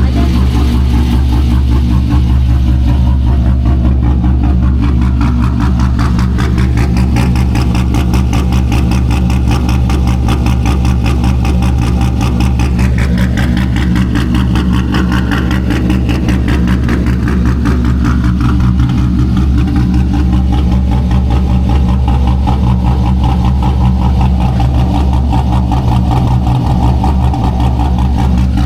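Corvette V8 engine idling steadily close up, with an even, unchanging beat.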